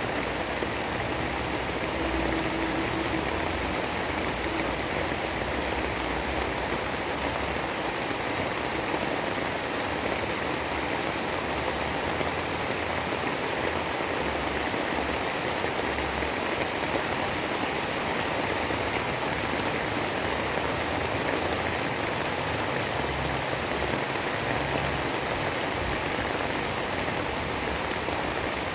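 Steady, even rush of storm ambience like heavy rain, with uneven low rumbles underneath.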